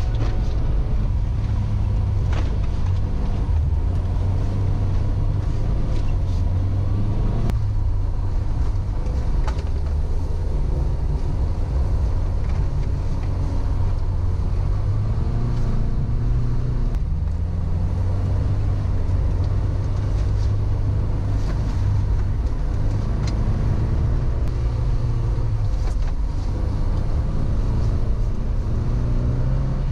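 Škoda Favorit's 1.3-litre four-cylinder engine heard from inside the car while driving on a snowy road, its note rising and falling as the revs change, with road noise underneath.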